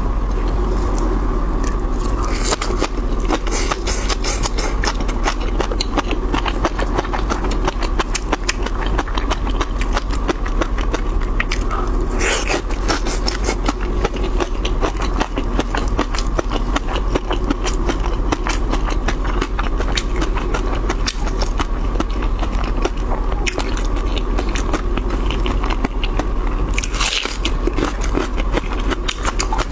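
Close-miked mouth sounds of someone chewing raw shrimp topped with fish roe: a dense, continuous run of wet clicks and smacks, over a steady hum.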